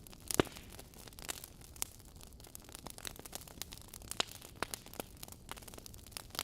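Wood fire in a fireplace, logs crackling with irregular sharp pops over a faint hiss; the loudest pop comes about half a second in.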